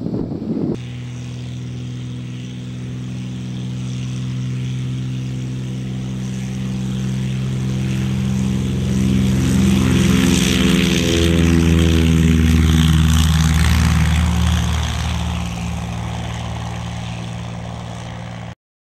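Propeller airplane engine running steadily, growing louder to a peak about two-thirds of the way through and then fading, its pitch shifting slightly at the loudest point as it passes. The sound starts abruptly and cuts off suddenly near the end.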